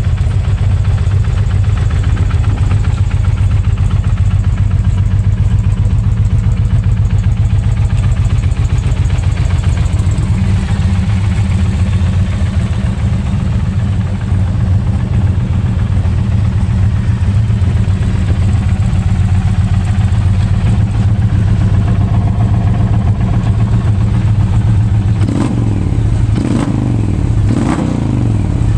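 Indian Pursuit's liquid-cooled PowerPlus V-twin idling with a steady low rumble, then revved briefly about three times near the end.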